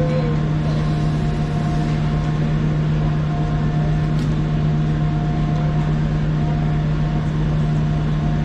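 Passenger train standing at the platform, giving off a steady, loud low hum with a fainter high tone that comes and goes.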